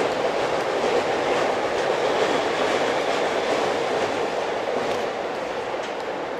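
Train running past on the rails, a steady rumble with wheels clacking over the rail joints, easing slightly near the end.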